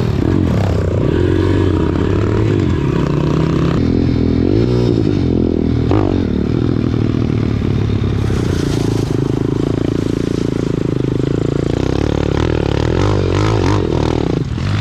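Single-cylinder four-stroke pit bike engines running under way. They rev up and ease off repeatedly in the first half, then hold a fairly steady pitch.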